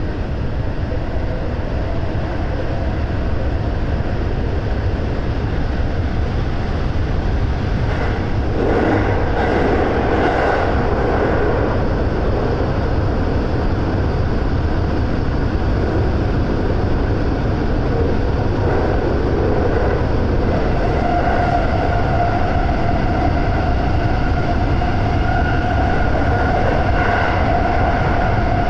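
A JR West 223 series electric train running through a tunnel, heard from inside the lead car: a steady rumble of wheels and running gear. A louder rushing swell comes about eight to eleven seconds in, and a steady whine joins about two-thirds of the way through.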